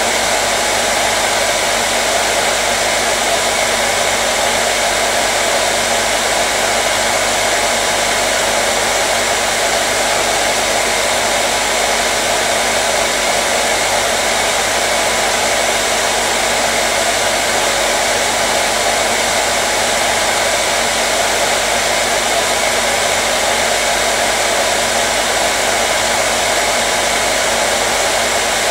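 Hair dryer running continuously at a steady setting: an even rushing of air over a constant motor hum, with no change in pitch or level.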